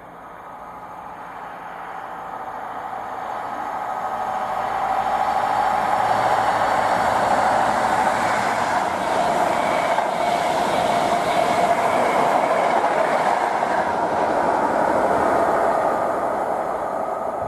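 InterCity 125 High Speed Train, with Class 43 diesel power cars, passing at speed. Its engine and wheel-on-rail noise build over the first five seconds or so, stay loud for about ten seconds, then start to fade near the end.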